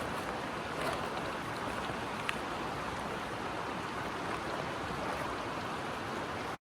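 Steady rushing of a flowing creek, with a few faint ticks over it; it cuts off suddenly near the end.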